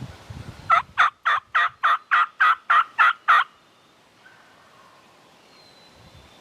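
A run of about ten evenly spaced turkey yelps, roughly three a second, loud and close, ending about halfway through; then only faint wind and leaf rustle.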